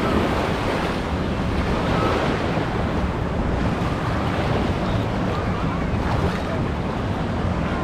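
Wave pool water washing steadily around waders, with wind noise on the microphone.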